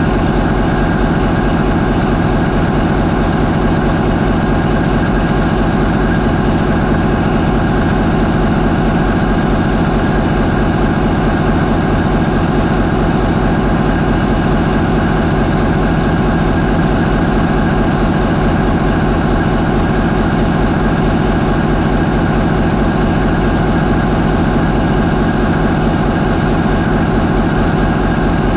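MAN 20V28/33D STC twenty-cylinder V diesel main engine of a high-speed ferry, running steadily at 550 RPM. The sound is loud and even throughout.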